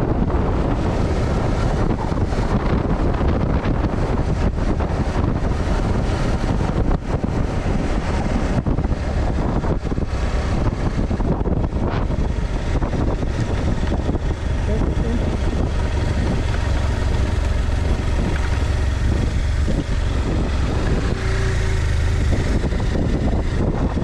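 Heavy wind buffeting the microphone of a GoPro action camera on a moving vehicle: a loud, steady rush with low rumbling flutter that masks most other sound.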